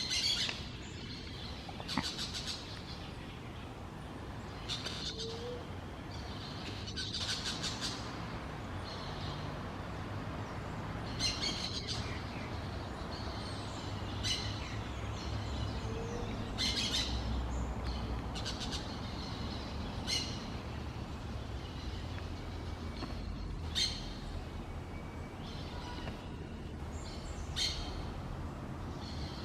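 Wild birds calling in woodland: short, high-pitched chirping calls repeated every few seconds, over a steady low background hum.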